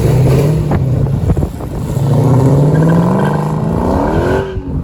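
Car engine running loud, holding a steady speed, then revving up in one slow rise from about two seconds in and dropping back near the end.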